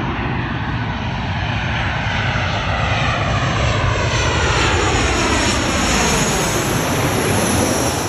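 Airliner passing low overhead on its way in to land. Its engine noise swells to a peak, with a sweeping whoosh that shifts in pitch, and falls away near the end.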